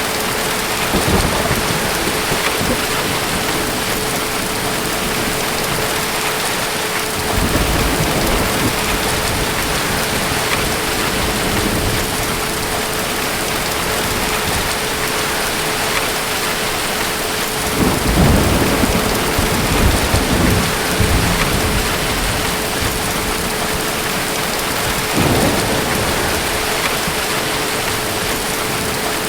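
Steady heavy rain with distant thunder rolling several times. The longest and loudest rumble comes about two-thirds of the way through.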